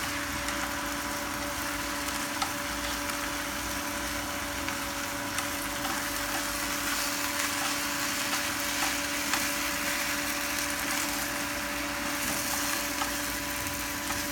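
Stir-fried glass noodles and vegetables sizzling in an oily pan as they are tossed and pulled apart with chopsticks, with scattered light clicks of the chopsticks against the pan. A steady hum runs underneath.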